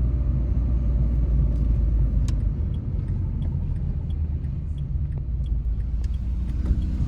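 Car road and engine noise heard from inside the moving car, a steady low rumble. From about a third of the way in, a faint tick repeats about every two-thirds of a second.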